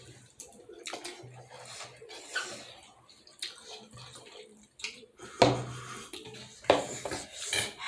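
Close-up eating sounds of momos being eaten: wet chewing and slurping, with a few clinks of cutlery and dishes. Two louder wet bursts come about five and a half seconds in and again near the end.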